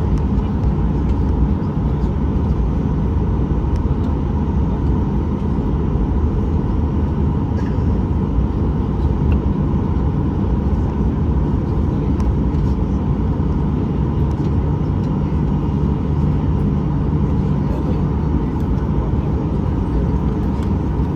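Steady cabin noise of a Boeing 737-800 heard from a seat over the engine: the CFM56-7B engines' low rumble with a steady whine, holding the same power throughout.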